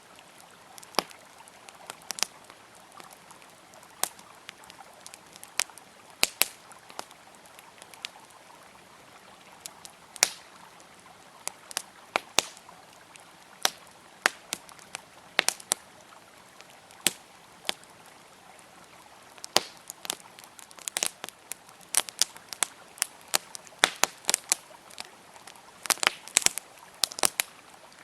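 Campfire crackling with irregular sharp pops of wood, over the steady rush of a flowing river. The pops come thicker toward the end.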